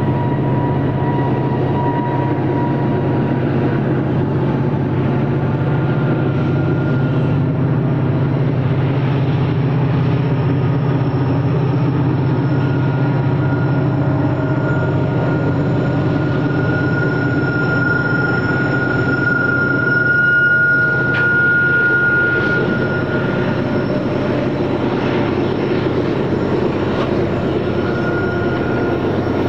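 Freight train running by with a steady rumble, and thin high-pitched tones coming and going over it.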